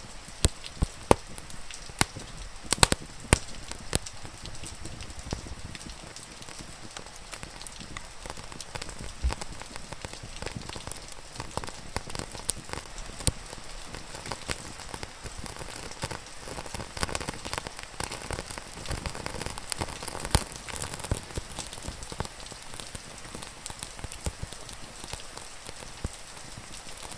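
Steady rain falling and pattering on a surface, with the sharp irregular pops and crackles of a wood fire burning.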